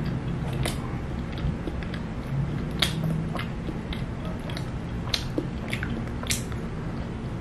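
A person chewing a soft pandesal roll filled with hotdog and cheese close to the microphone: scattered moist mouth clicks and crackles over a low steady hum.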